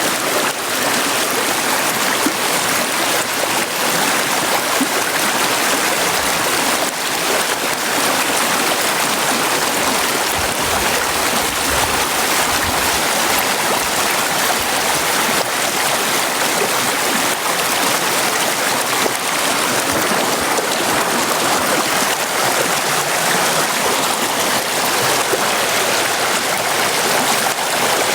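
River water flowing, a steady rushing wash of water that holds evenly throughout.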